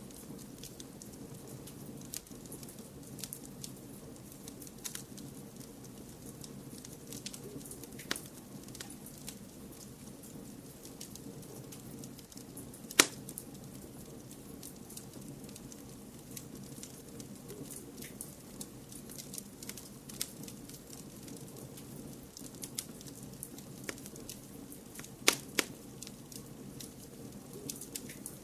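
Fire in a fireplace crackling, with scattered sharp pops over a steady low background noise. One loud pop comes about halfway through, and two more follow in quick succession near the end.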